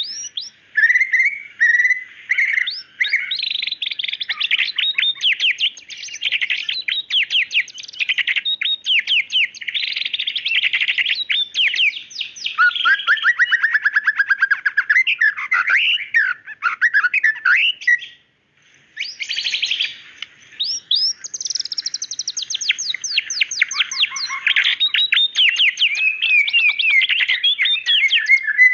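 White-rumped shama (murai batu) singing a long, varied song of clear whistles and fast rapid-fire note runs, with one short pause about two-thirds of the way through.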